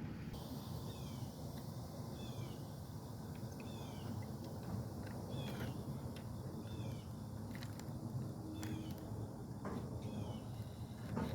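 A bird calling over and over with short chirps that fall in pitch, over a low steady rumble.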